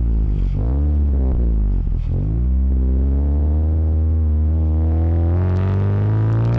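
Toyota Yaris T-Sport's four-cylinder engine heard through a homemade stainless cat-back exhaust with a silencer, recorded at the rear number plate while the car accelerates. The revs drop and pick up twice in the first couple of seconds, like quick gear changes, then climb in one long, steady pull.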